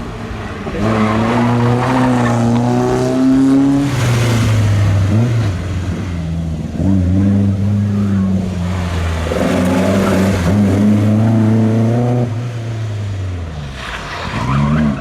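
Classic rally cars' engines running and accelerating, the pitch climbing and dropping several times as the revs change. There is a louder rush about four seconds in and again near the end.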